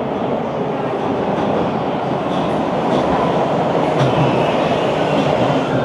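TTC Line 2 subway train arriving at the platform: a steady rumble of wheels on rails that grows a little louder about three seconds in.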